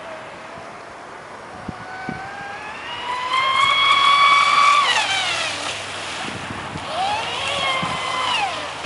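Spartan RC speedboat's electric motor whining at high pitch under throttle: it climbs about three seconds in, holds briefly and falls away, then rises again and drops off near the end, over steady water and wind noise.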